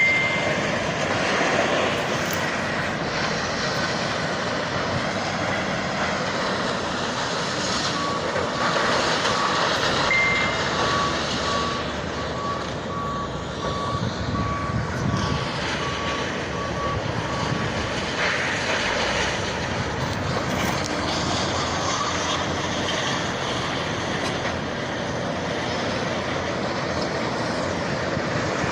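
Steady noise of heavy vehicles, with a reversing alarm beeping evenly for about ten seconds in the middle.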